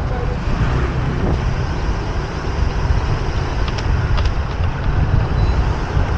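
Motorbike riding through city traffic: a steady low rumble of wind and road noise with traffic around.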